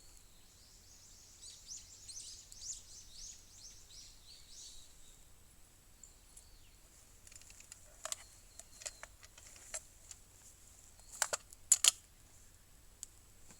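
A bird singing a quick run of short, falling high notes for a few seconds, then scattered sharp clicks and knocks, with two loud ones close together near the end.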